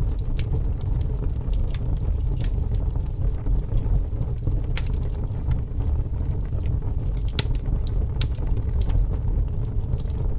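A fire burning with a steady low rumble and scattered crackles, with a few sharper pops.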